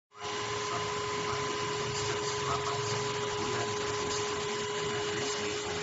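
Cordless handheld vacuum cleaner running steadily: a motor whine over the hiss of rushing air. It cuts off suddenly near the end.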